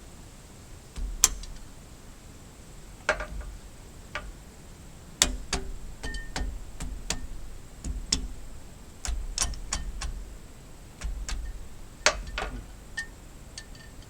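About twenty irregular, sharp metallic clicks and clinks, a few with a short ring, as of hand tools and metal parts being handled.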